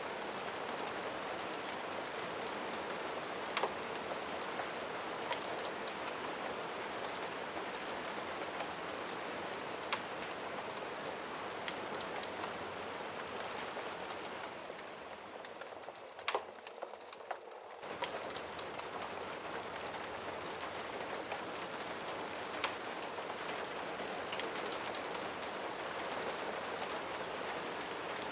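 Steady rain falling on a surface, with a few sharp drop ticks. About halfway through the rain thins and grows quieter, then comes back full all at once.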